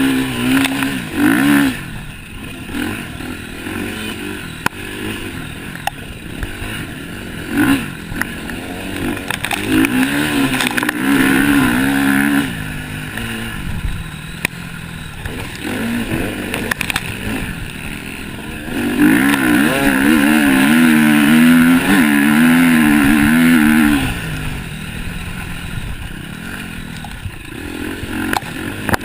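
Motocross bikes racing round the track, engines revving up and down as riders work the throttle. Several machines come and go, the loudest passing close from about nineteen to twenty-four seconds in.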